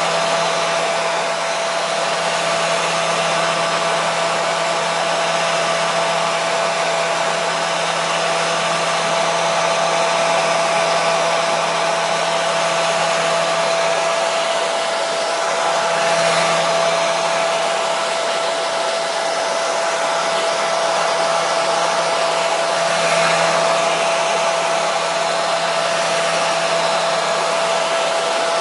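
Hair dryer running continuously at a steady speed: an even rushing hiss of air with a constant motor hum and whine.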